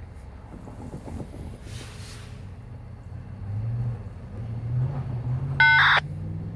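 Diesel locomotive engine running with a low drone that swells in the second half, cut across by one short, loud horn toot about five and a half seconds in.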